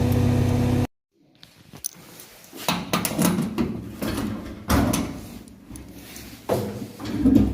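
A car engine running steadily, cut off abruptly about a second in, then a string of knocks and clunks, like doors being opened and shut.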